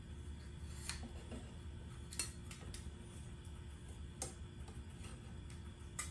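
Irregular light clicks and clinks, about five in all, over a low steady hum.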